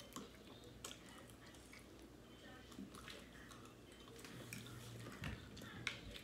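Faint chewing of people eating fried chicken by hand, with scattered short clicks; the sharpest comes near the end.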